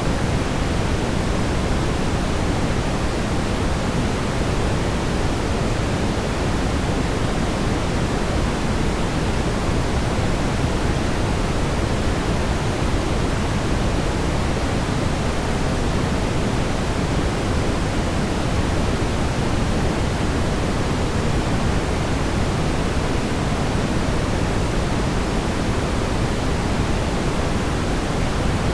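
Brown noise: a steady, even rumbling hiss, heaviest in the low end, that does not change.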